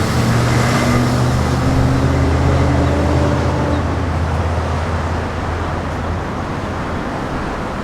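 A motor vehicle's engine running close by, a steady low hum with a tone that rises slightly, easing off over the last couple of seconds, over general traffic noise.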